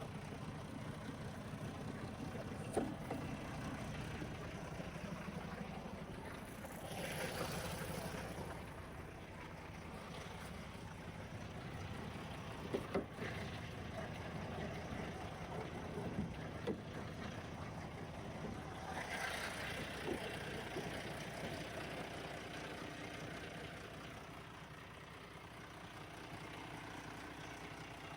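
Steady low hum of an idling truck engine, with a few sharp knocks and two brief swells of rushing noise.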